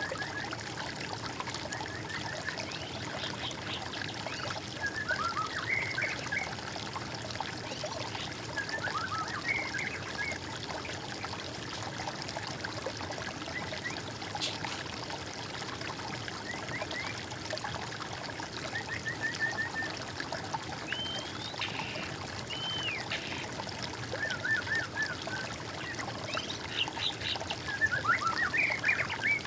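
Songbirds singing short, repeated whistled and trilled phrases every few seconds over a steady trickle of running water; the loudest phrases come near the end.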